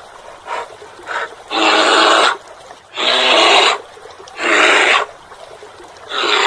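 Brown bear growling in rough, rasping bursts: four loud ones, each under a second long and evenly spaced, with a few softer ones before them.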